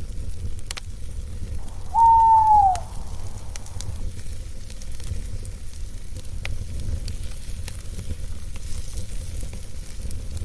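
Campfire crackling with scattered sharp pops over a low steady rumble. About two seconds in, an owl gives one loud hoot, held steady and falling off at the end.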